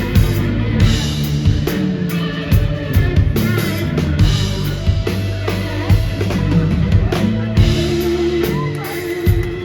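Live rock band playing an instrumental passage: a drum kit keeps a steady beat with snare and bass drum under sustained bass, keyboard and guitar notes.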